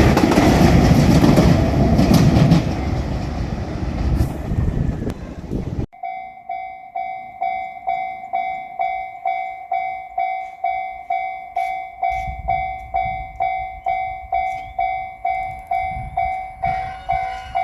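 JR Shikoku 2600 series diesel limited express railcar passing over the level crossing, its train noise fading over the first six seconds. After that the crossing's warning bell keeps ringing steadily, about two strikes a second.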